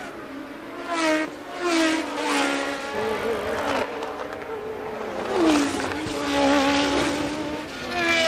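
1982 Formula One cars passing one after another at high revs, each engine's pitch dropping as it goes by.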